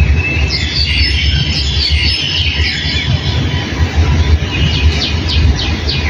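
Small birds chirping, many quick calls overlapping, with a run of fast falling notes near the end. Under them runs a steady low rumble that is louder than the birds.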